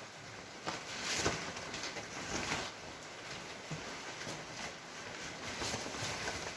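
Rustling wind noise on a motorcycle rider's microphone, broken by irregular knocks and bumps, the loudest about a second in and again about two and a half seconds in.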